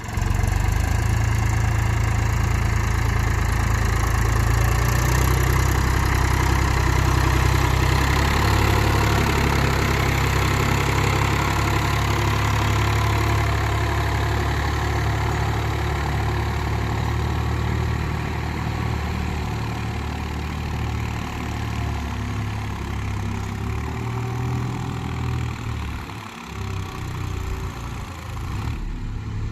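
Mahindra 275 DI TU tractor's diesel engine running steadily, easing a little in the second half with a short dip near the end.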